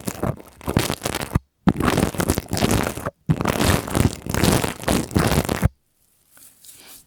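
Pipe cleaners rubbed and scratched against the microphone: dense, crinkly scratching in three long bursts that cut off abruptly, fading to a faint rustle near the end.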